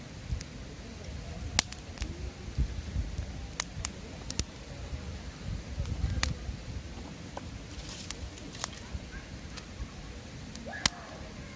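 Wood fire burning, crackling with irregular sharp pops over a low, steady rush of flame; the loudest pops come about a second and a half in and near the end.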